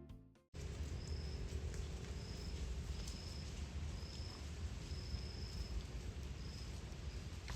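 A faint high-pitched insect chirp, repeating roughly once a second over a steady low rumble. Background music fades out just before it, about half a second in.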